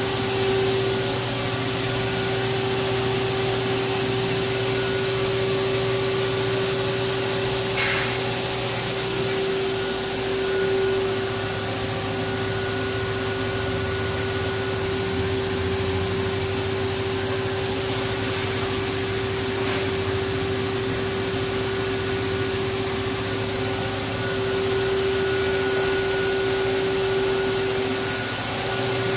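Haas SL20 CNC lathe running steadily: a constant whine over a broad hiss, with a single short click about eight seconds in.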